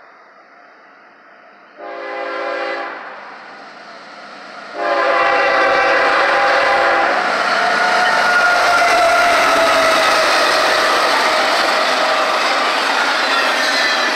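Lead GE ES44AC diesel locomotive's air horn: a short blast about two seconds in, then a long blast starting about five seconds in as the train arrives. After that comes the loud, steady roar of the locomotives and the double-stack container cars' wheels passing close by on the rails.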